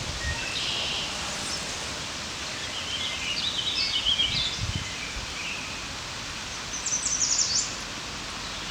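Songbirds singing in several short, high phrases over a steady outdoor hiss.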